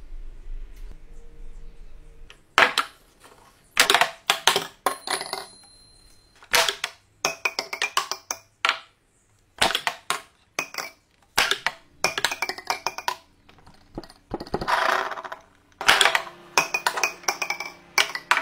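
A steel ball clattering through a wooden pinball board, knocking against pins and the wooden frame. The sharp knocks and clinks come in quick bursts with short pauses between them, and one strike about five seconds in rings briefly.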